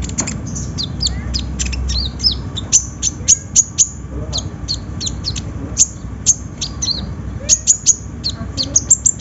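Kolibri ninja (konin) sunbird singing a fast, busy string of sharp, high-pitched chirps and short down-slurred notes, over a low rumble that fades about two seconds in.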